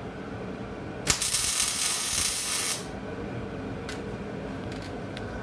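Ratchet wrench clicking rapidly for about a second and a half while working exhaust fasteners, followed by a few light tool clicks.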